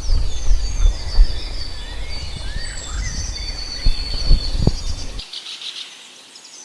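Forest birds chirping and whistling, with insects buzzing, over a low rumble that stops about five seconds in.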